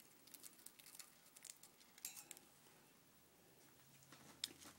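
Faint, crackly nibbling of a budgie's beak shredding a Cheerio: scattered small crunching clicks, thickest in the first couple of seconds, with a few more near the end.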